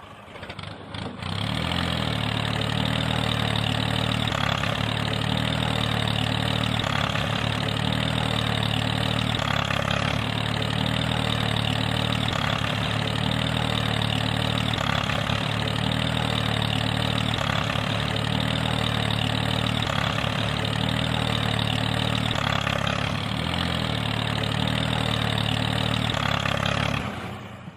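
Small engine of a DIY mini tractor running steadily at idle. It starts about a second in and cuts off abruptly near the end.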